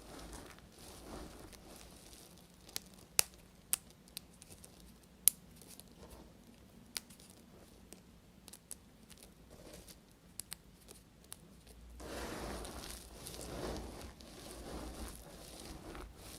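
Dry bar soap being cut: scattered sharp cracks and snaps, then from about twelve seconds in a steady crumbly scraping and crackling.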